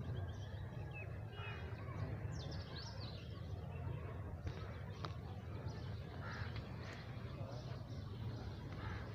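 Birds calling outdoors, with a few short falling calls about two and a half seconds in, over a steady low rumble.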